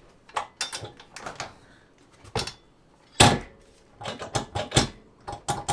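Minn Kota Maxxum bow-mount trolling motor being worked on its mount: a run of metal clanks and knocks, the loudest about three seconds in, as the motor is stowed and seats into its Troll Tamer stabilizer.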